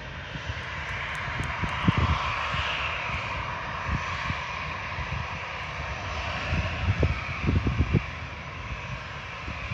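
Jet airliner's engines, likely an Airbus A320, giving a steady rushing noise that is strongest about two to three seconds in. Irregular low thumps run underneath.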